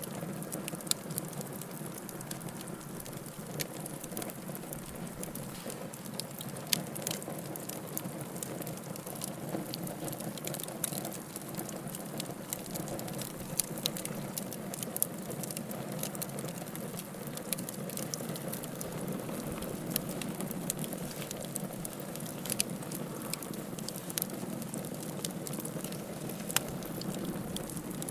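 Wood fire burning with a steady low rush and frequent sharp, irregular crackles and pops.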